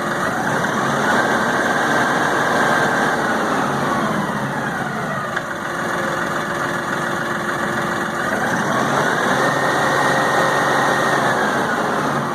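LS XR4155 tractor's diesel engine revving up, holding at high speed, then dropping back to idle, twice over. The tractor has been missing on a cylinder and knocking, which the owner suspects may be water or dirt in the diesel fuel.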